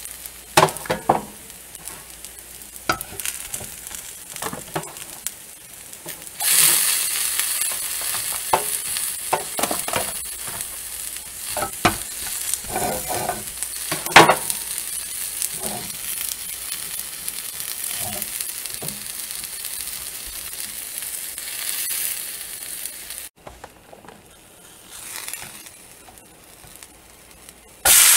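Burger, fries and onion rings sizzling in a frying pan, with metal tongs clicking and scraping against the pan as the food is moved. A steady sizzle comes in loudly about six seconds in, with sharp clicks over it, and drops away suddenly near the end.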